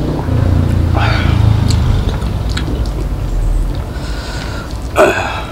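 Close-miked eating sounds: a person chewing a mouthful of rice, egg and chilli, with a few light clicks. About five seconds in comes a sharp, loud noisy breath sound, like a sniff or snort.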